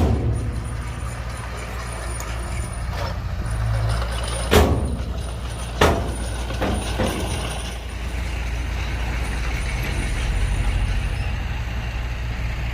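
Diesel engine of heavy earthmoving machinery running steadily, with two sharp knocks about four and a half and six seconds in.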